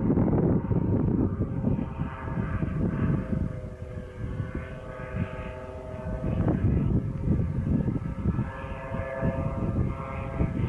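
Engine of a homemade light airplane running, a steady droning tone that shifts slightly in pitch, over a loud low rumble.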